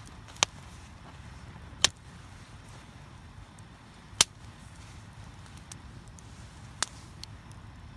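Campfire wood crackling: four sharp pops at irregular intervals, with a few fainter ticks between them, over a low steady rumble.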